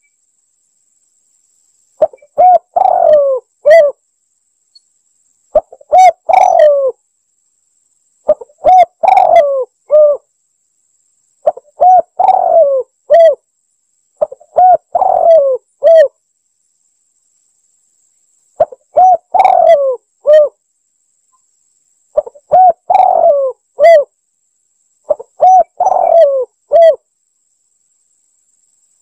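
Spotted dove cooing: about nine short phrases of a few low coos each, repeated every three seconds or so, with a slightly longer pause about halfway.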